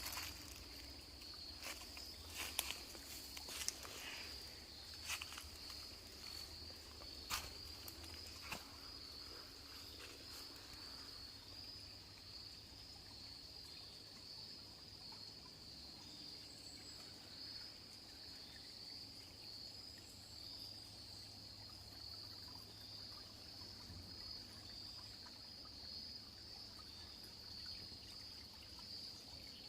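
Insects, such as crickets, trilling in a steady, unbroken high-pitched chorus. A few sharp clicks and rustles sound in the first nine seconds or so.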